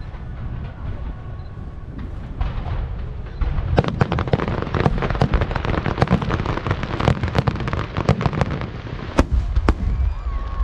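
Aerial fireworks going off: a low rumble with scattered bangs, then, about four seconds in, a dense barrage of sharp cracks and bangs.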